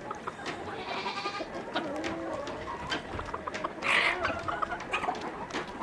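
Free-range chickens clucking and calling, with scattered small clicks and a louder call about four seconds in.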